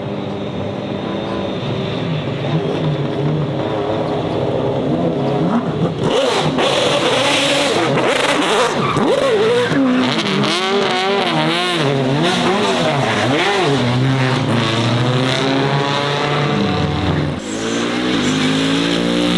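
Racing car engine running hard, its pitch swinging up and down in quick waves as it is revved repeatedly, then climbing steadily near the end.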